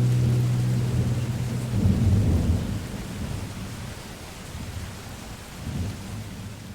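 Thunder rolling over rain, as the last held music notes fade out at the start. The rumble swells about two seconds in and again near the end.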